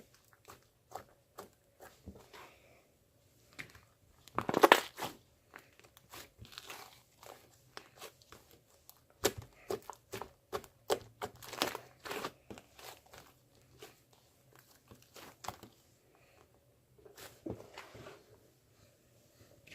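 Close-up crinkling and crunching handling sounds with scattered sharp clicks. The loudest crinkling crunch comes about five seconds in, and a busier run of them follows about nine to thirteen seconds in.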